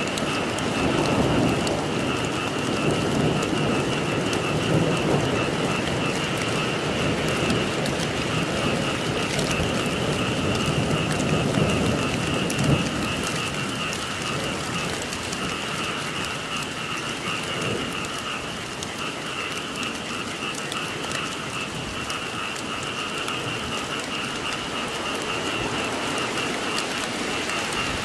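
Steady rain falling, with a continuous chorus of frogs calling as a steady high trill. A low rumble under the rain in the first half eases off about halfway through.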